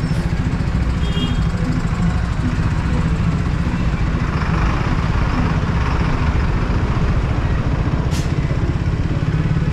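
Triumph Speed 400 single-cylinder motorcycle engine running steadily at low speed in slow city traffic, a low rumble throughout. A brief high hiss about eight seconds in.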